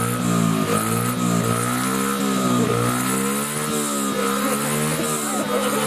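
Small motorbike engine running, its pitch rising and falling about once a second as the throttle is worked.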